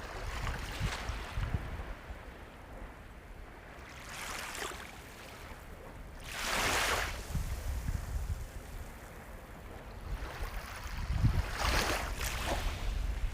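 Sea waves breaking and washing ashore, each swell of surf rising and falling over a steady low rumble. The loudest wave breaks about six seconds in, and more waves surge near the end.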